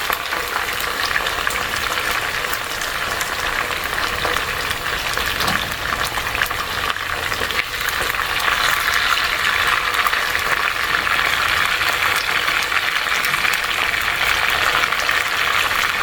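Chicken pieces frying in hot oil in a pot, a steady sizzle with crackling pops that grows louder about halfway through; the chicken is browning.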